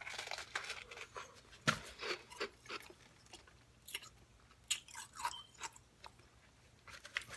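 Close-up chewing and crunching of food by a single eater, in uneven bites and chews with no speech.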